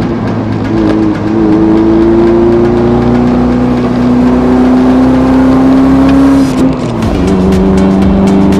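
Car engine pulling under acceleration, its pitch rising slowly for several seconds, then dropping with a gear change about seven seconds in and running steadily in the next gear.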